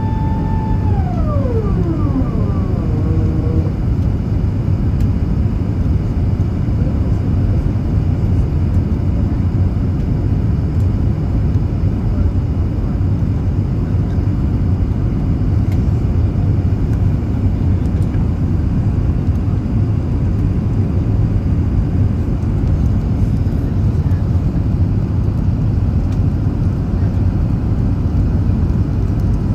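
Steady, loud roar of an Airbus A380 airliner on its descent, its engines and rushing air at an even level. Near the start a whine glides down in pitch and fades out within about three seconds.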